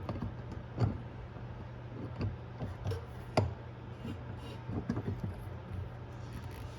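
Scattered clicks and knocks of tools and washing-machine parts being handled, over a steady low hum; the sharpest knock comes about three and a half seconds in.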